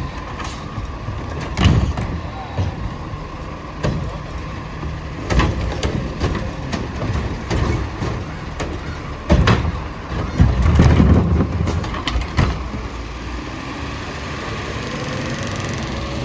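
Autocar ACX garbage truck with a Heil Curotto-Can loader running, with a string of sharp clanks and bangs over the engine, the heaviest in a cluster just past the middle.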